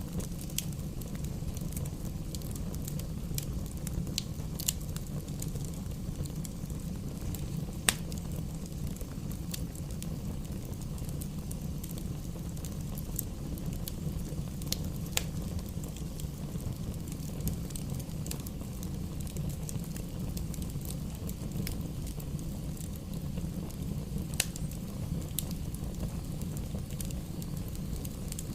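Campfire burning, with a steady low rumble and irregular sharp crackles and pops, the loudest about eight seconds in.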